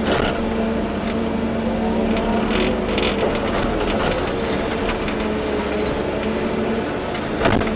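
Volvo EC240B excavator's diesel engine running under hydraulic load, its pitch wavering slightly as the machine works, with scattered knocks and rattles and a sharper knock near the end.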